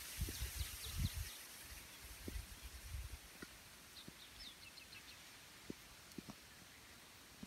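Small birds chirping faintly in short runs, about half a second in and again around four to five seconds in, over an even outdoor hiss, with a few low rumbles in the first second and a half.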